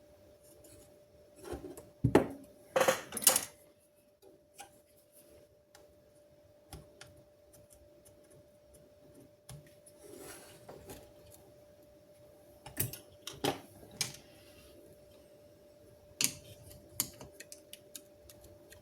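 Small metal tools and parts clicking and clattering as they are handled and set down on a workbench, in several short bursts, over a faint steady hum.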